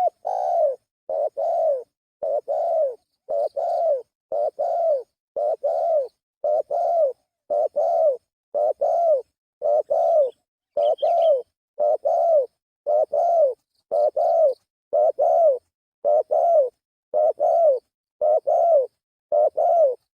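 Spotted dove (tekukur) cooing, played as a lure call: a short two-part coo repeated steadily about once a second, with complete silence between the calls.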